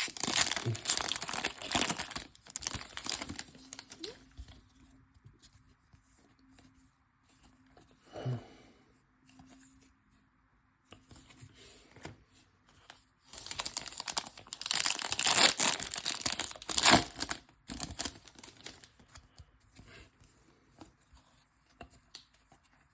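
Plastic wrapping of trading-card packs being torn open and crinkled, loud in the first few seconds and again in a stretch past the middle, with quieter handling of packs and cards between.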